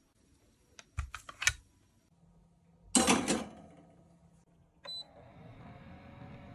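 Makeup cases and tools being handled: a few sharp clicks, then a louder clatter about three seconds in, and another click just before a faint steady rustle.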